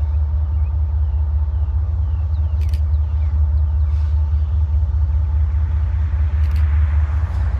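CSX freight train rolling past: a loud, steady low rumble, with two sharp clicks in the middle and near the end.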